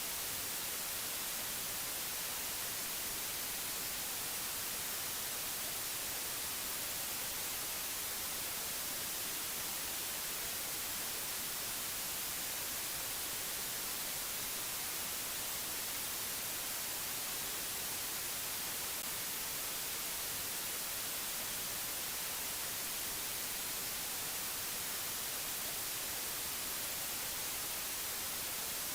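Steady white-noise hiss, even and unchanging, strongest in the high end.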